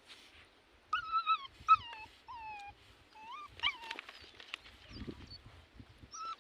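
A dog whimpering: a run of short, high whines starting about a second in, several of them falling in pitch.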